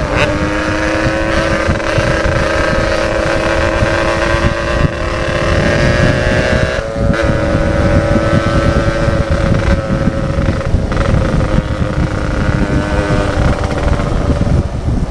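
Yamaha RX King's two-stroke single-cylinder engine running through an aftermarket 'setengah dewa' exhaust while riding, its note held at a steady pitch with a short dip about seven seconds in. Wind rumbles on the microphone.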